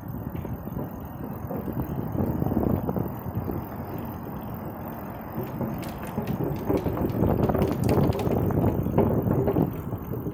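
Riding noise on a bicycle: a steady low rumble that swells twice, with a few sharp clicks or rattles in the second half.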